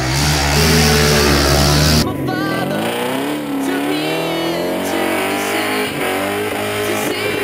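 Drift car engine running at steady high revs under a loud rushing noise, which cuts off abruptly about two seconds in. After that, the engine revs up and down, its note rising and falling in pitch.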